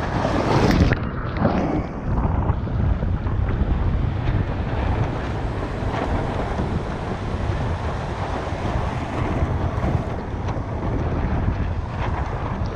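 Strong wind buffeting the microphone over the wash of surf, with a louder rush of water in the first two seconds.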